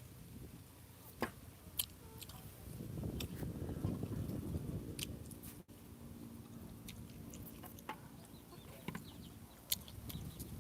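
Rambutans being peeled and eaten: scattered sharp clicks of the rind being split, and chewing, loudest a few seconds in.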